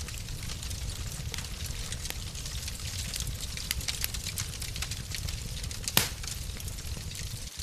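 Wood fire in a fireplace crackling, with a steady low rumble of the flames under many small snaps and one louder pop about six seconds in.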